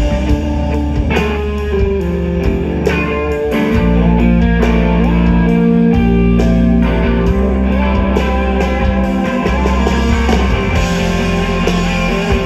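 Live rock band playing an instrumental passage between sung lines, led by electric guitar over sustained bass notes.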